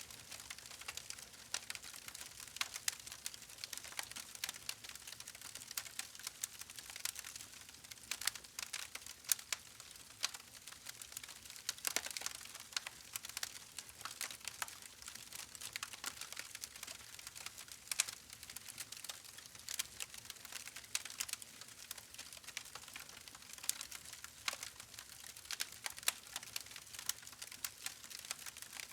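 Wood fire crackling: a soft steady hiss with irregular sharp pops and snaps, a few louder pops scattered through.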